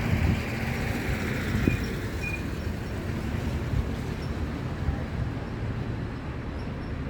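Steady low rumble of outdoor background noise, with two faint short high-pitched chirps about two seconds in.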